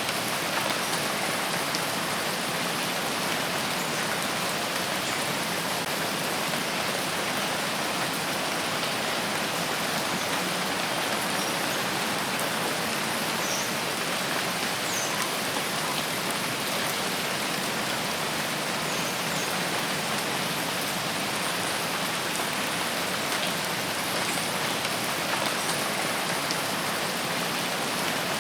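Rain falling steadily, a constant even hiss with no lulls or breaks.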